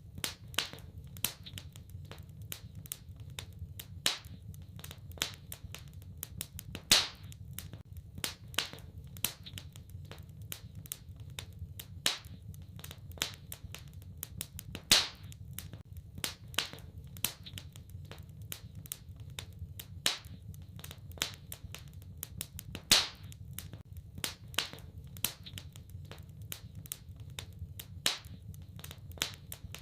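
Wood fire crackling in a fireplace: a steady run of irregular small snaps and pops, with a louder pop roughly every eight seconds, over a low steady rumble.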